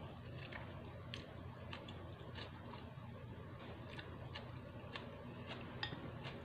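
Chewing a mouthful of instant noodles, with wet mouth clicks and smacks about twice a second at an uneven pace, over a faint steady low hum.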